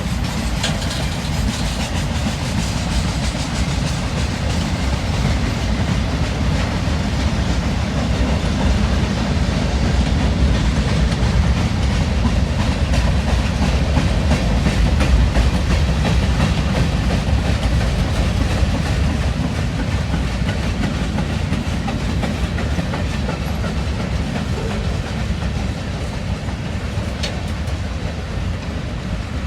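A train rolling past at a steady speed: a continuous low rumble of the cars, with the wheels clicking over the rail joints.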